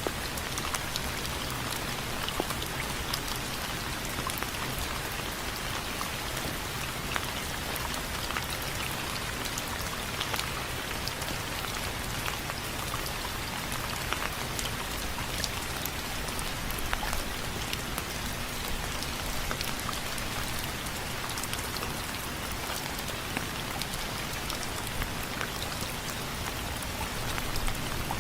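Steady rain falling on window frames, an even hiss dotted with many sharp ticks of individual drops striking.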